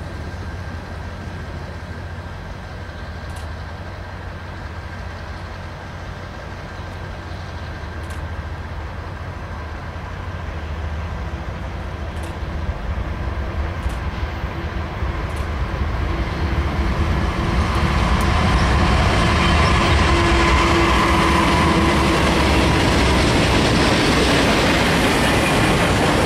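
A Norfolk Southern diesel freight train approaching and passing. The locomotive's engine rumble grows steadily louder. From about two-thirds of the way in, a long string of empty rail-carrying rack flatcars rolls past with steady wheel clatter.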